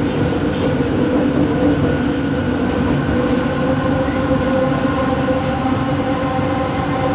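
Bombardier Innovia ART 200 metro train running between stations, heard from inside the car: a steady rumble of the running gear with a whine of several steady tones from its linear induction motors, which edges up in pitch near the end.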